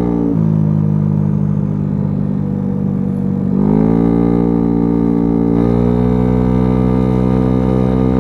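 Small 50cc scooter engine with a big bore kit running under way. Its pitch drops about a third of a second in, holds low, then climbs again about three and a half seconds in and settles steady and higher.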